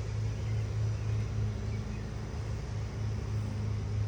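Honeybees buzzing around an open hive: a steady low hum.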